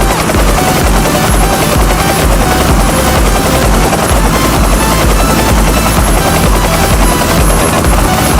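Loud, steady helicopter rotor noise: a continuous rotor chop with an even low pulsing.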